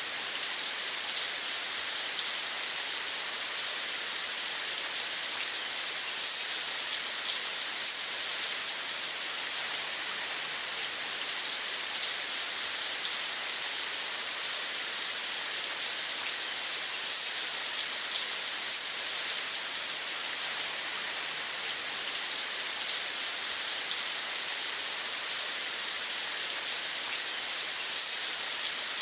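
Steady rain: an even hiss with fine drop ticks, unchanging throughout.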